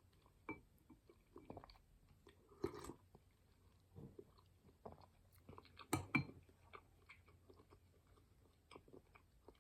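A person chewing and eating soup, with soft mouth smacks and a few faint clicks, one of them possibly the spoon.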